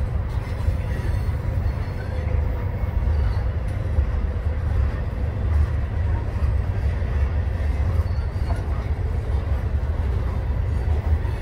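Freight train of covered hopper cars rolling past at low speed: a steady, loud, low rumble of wheels on the rails.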